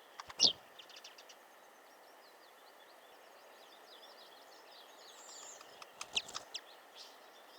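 Small songbirds chirping in short, high notes, with sharp knocks and clicks: one loud knock just under half a second in, and a quick cluster of clicks about six seconds in.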